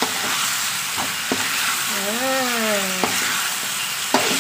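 Chicken and pineapple pieces in sweet-and-sour sauce sizzling in a metal wok while a spatula stirs them, knocking and scraping against the pan several times.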